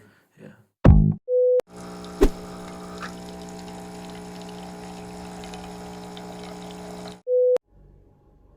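A sharp thump, then a short steady electronic beep, a steady electrical hum for about five seconds, and a second identical beep as the hum cuts off.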